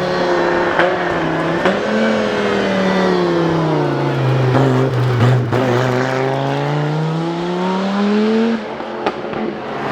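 Rally car engine running under load. The revs sag slowly for a few seconds, then climb steadily and fall away sharply near the end, with a few sharp cracks along the way.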